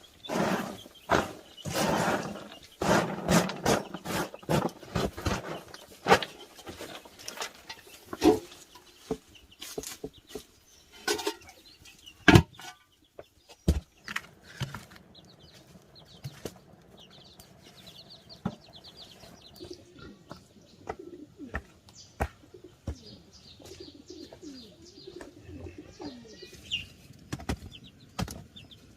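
Animal and bird calls, loudest and densest in the first six seconds, with scattered sharp knocks, then quieter with faint high chirps through the rest.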